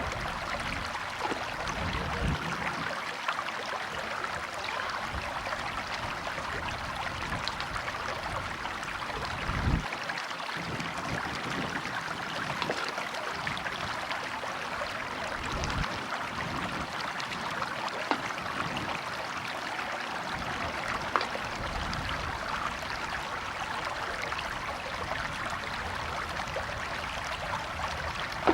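River water flowing and splashing steadily over stones, with a few brief low thuds now and then.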